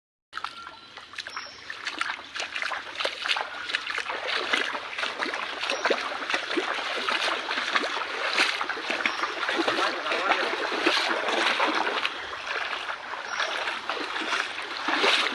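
Floodwater splashing and running: a dense, irregular spatter of small splashes over a steady rush of water.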